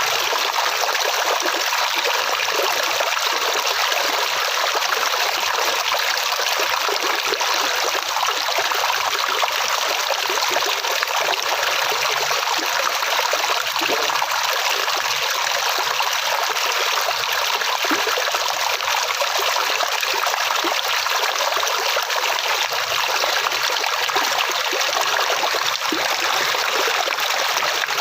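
Water flowing steadily in a stream, a constant bright rushing and trickling with little low rumble.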